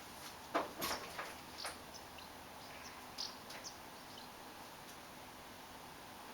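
Faint scattered clicks and rustles over quiet background noise, with no engine running.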